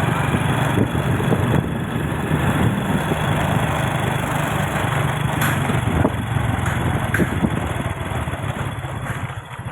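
Small vehicle engine running steadily on the road, easing off near the end.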